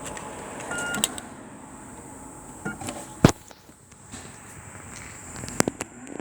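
Christ Genius car-wash gantry standing by with a thin steady high whine, a short beep about a second in, and a few sharp clicks and knocks, the loudest about three seconds in and two more close together near the end.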